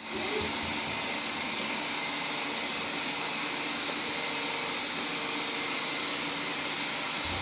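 Blitzwolf BW-VC2 robot vacuum cleaner running, its suction fan making a steady, even hiss.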